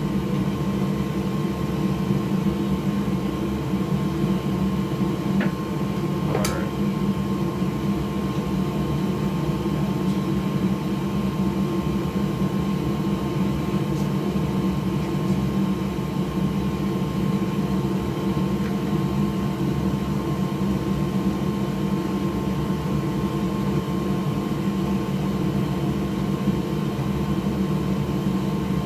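Steady whir of an electric fan or blower motor in a small workshop, with a faint click about six seconds in.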